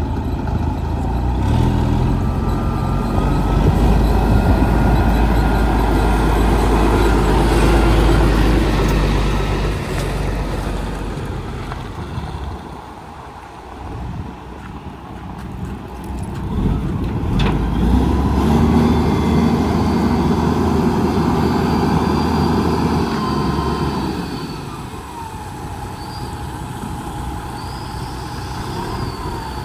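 1995 Western Star tri-axle dump truck's diesel engine running, loud through the first ten seconds, easing off in the middle, then louder again before settling lower near the end. A single sharp click comes just past the middle.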